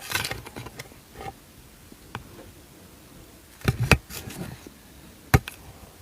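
A few sharp clicks and knocks with faint rustling as snack food and its wrapping are handled and eaten; the loudest is a quick double knock about two-thirds of the way through, with a single sharper click near the end.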